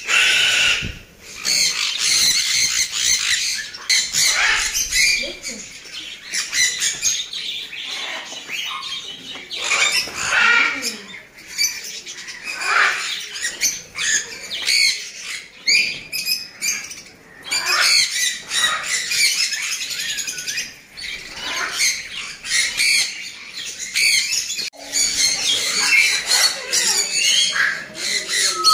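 Many parrots calling at once, a dense overlapping chorus of harsh squawks and chirps.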